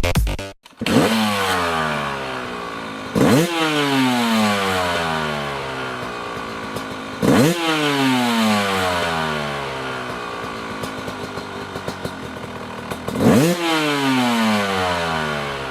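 GAS GAS 300 two-stroke dirt bike engine revved hard four times. Each rev is a sharp climb in pitch followed by a long falling drop over several seconds, and the sound fades out at the end.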